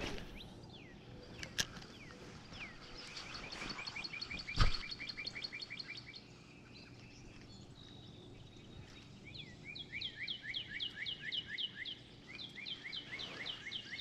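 Songbirds trilling: quick runs of short, falling chirps at two pitches, first a few seconds in and again through the last five seconds. A single sharp knock sounds about four and a half seconds in.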